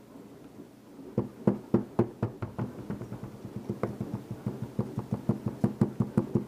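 Rapid repeated knocking on a sand-casting mold flask, about three to four sharp knocks a second, starting about a second in and uneven in strength.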